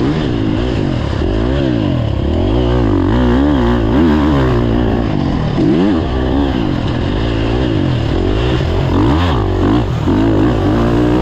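Motocross dirt bike engine revving hard, its pitch climbing and dropping again and again as the throttle is worked.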